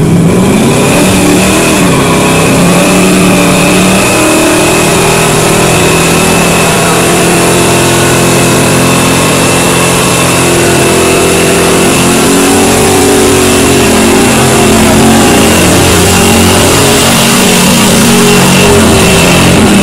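Car engine held at high revs through a long burnout, its pitch wavering, with the spinning tyres squealing in a steady high screech over a thick hiss of tyre noise.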